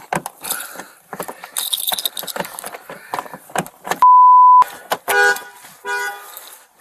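Scattered clicks and rattles of metal gear being handled, then a loud one-tone censor bleep about four seconds in, followed by two short car-horn honks about a second apart.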